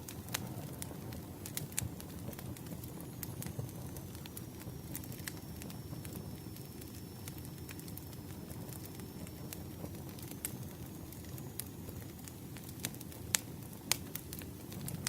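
Campfire burning: a steady low rumble of flames with scattered sharp crackles and pops, two louder pops near the end.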